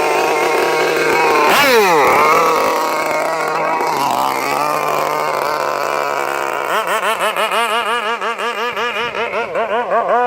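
Zenoah G320 two-stroke petrol engine of a radio-controlled boat, fitted with a can-type tuned exhaust, revving up and dropping back. It settles lower for a couple of seconds, then runs with a rapidly wavering pitch, rising and falling several times a second, through the last few seconds.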